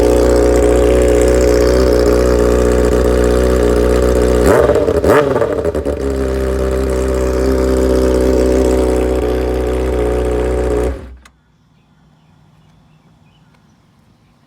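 A 2010 Honda CBR600RR inline-four idles through a straight-piped short side exhaust with no catalytic converter. About four and a half seconds in it gives one quick throttle blip and settles back to idle. About eleven seconds in the engine is switched off and cuts out suddenly.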